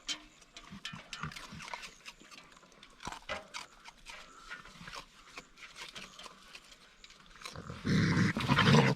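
Raccoons feeding, with faint scattered clicks and crunches. Near the end comes a loud burst of raccoon vocalising, over a second long, typical of raccoons squabbling over food.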